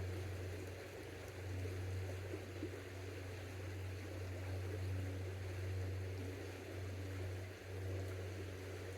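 Creek water flowing: a steady rushing noise with a constant low rumble underneath.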